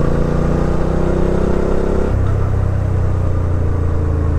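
Suzuki V-Strom 650 XT's V-twin engine running under way, its note rising slightly and then dropping to a lower pitch about two seconds in.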